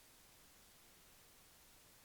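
Near silence: faint steady hiss, with no distinct sound.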